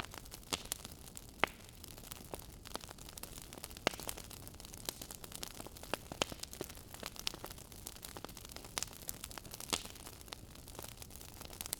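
Wood fire crackling in a fireplace: irregular sharp pops and snaps, several a second, over a soft steady hiss, with one louder pop about four seconds in.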